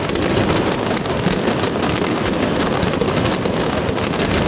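Fireworks display: a dense, unbroken barrage of bangs and crackling, many sharp cracks overlapping at a steady level.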